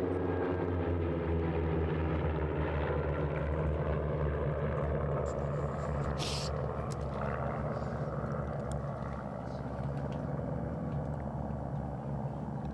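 Propeller-driven airplanes flying in formation overhead: a steady engine and propeller drone that falls in pitch just at the start as they pass. A short hiss comes about six seconds in.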